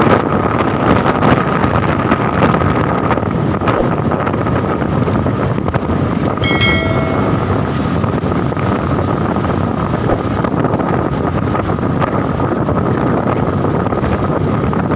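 Strong wind rushing over the microphone with motorcycle engine and road noise while riding at speed across a bridge, steady and loud. A brief pitched tone, like a horn, sounds about six and a half seconds in.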